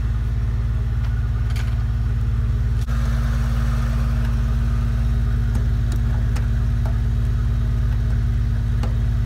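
A car engine idling steadily with an even low hum, and a few light clicks over it.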